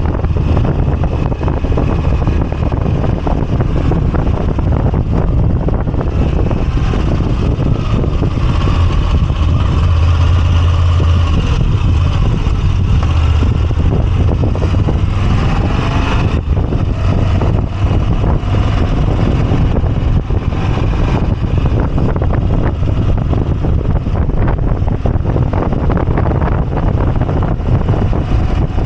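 Moto Guzzi V85TT's air-cooled transverse V-twin running steadily on the road, with wind buffeting the microphone.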